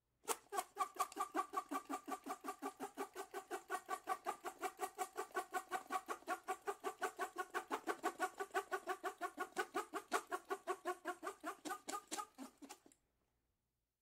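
A bird calling in a rapid, even train of short nasal notes, about seven a second, that keeps up for some twelve seconds and then stops abruptly.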